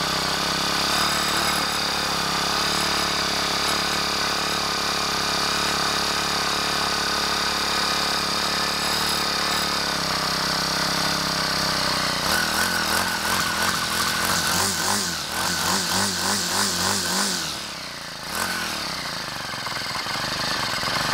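Troy-Bilt TB475SS four-stroke string trimmer engine running just after a choked cold start, steady at first. About twelve seconds in it is revved up and down repeatedly, about twice a second, then dips briefly near the end and picks up again.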